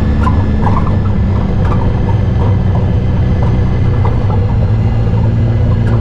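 Off-road UTV/ATV engine running steadily under way, with a few light knocks or rattles over it; its note shifts slightly under a second in.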